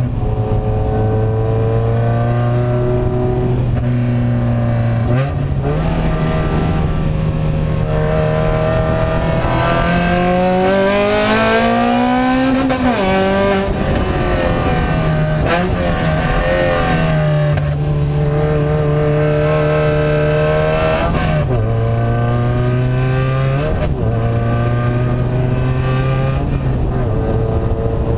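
Car engine running through an open, unmuffled exhaust while driving, its pitch holding steady and stepping up and down several times. About eight seconds in the revs climb steadily for several seconds, then drop sharply.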